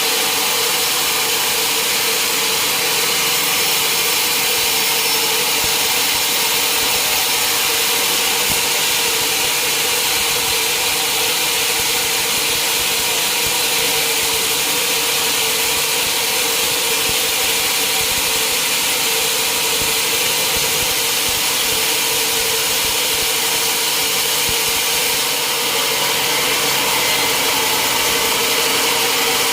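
Sawmill running steadily, its saw cutting through mahogany wood: a loud, even mechanical drone with a steady hum that holds the same level throughout.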